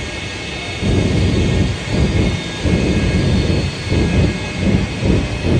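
Shockwave jet truck's three Westinghouse J34 jet engines running, a steady high turbine whine over a loud, uneven low rumble.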